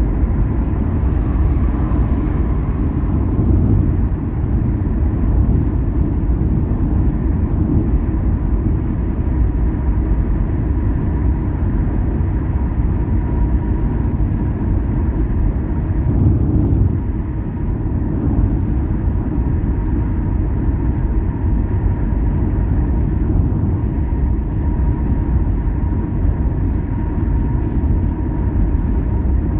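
Car driving along a road: a steady low rumble of engine and tyre noise, with a faint steady high tone running through it.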